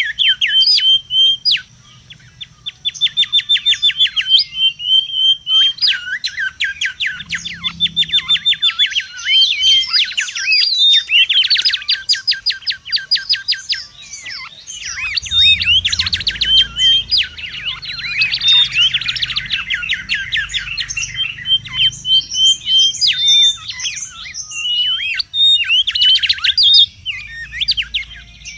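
Mangrove whistlers calling busily: a dense run of whistled notes, chirps and fast repeated-note trills, with several birds seeming to overlap.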